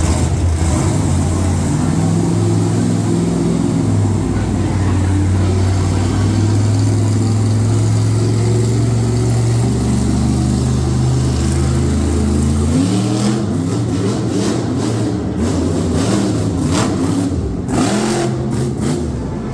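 Monster truck engine running at a steady low drone, then revving up about two-thirds of the way through, its pitch rising and then surging unevenly with the throttle.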